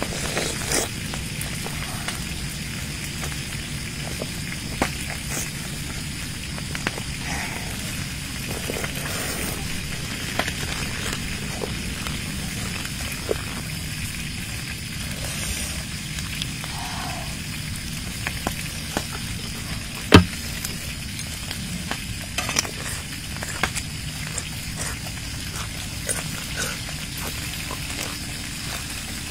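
Close-miked mukbang eating sounds: wet chewing and smacking of grilled meat, with crisp bites into leafy greens near the end, over a steady background hiss. Scattered small clicks, and one sharp snap about two-thirds of the way in.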